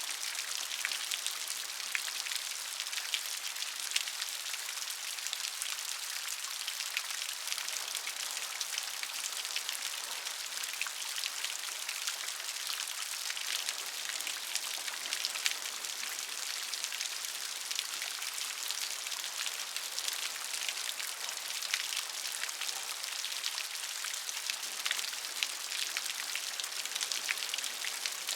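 Steady rain with many individual drops pattering on a surface, a dense high hiss with fine clicks and no low rumble.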